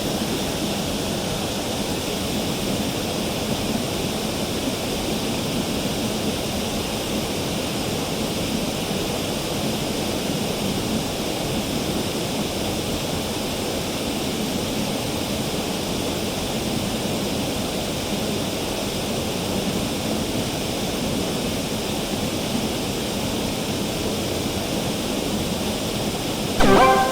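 Mountain stream water rushing steadily over rocks. Near the end a brief, louder pitched sound cuts in.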